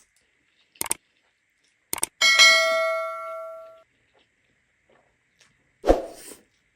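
A metal dish struck by an eating utensil, ringing out with a clear clang that fades over about a second and a half, after two light clicks. A dull knock near the end.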